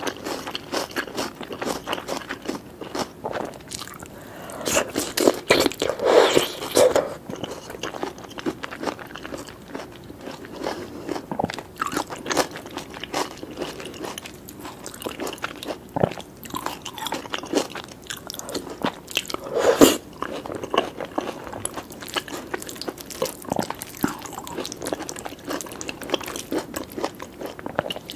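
Close-miked eating sounds of a person chewing a meal of lamb and egg curry with basmati rice, grilled tomato and peppers: continuous chewing with many small wet clicks and smacks. It gets louder twice, about six seconds in and again about twenty seconds in.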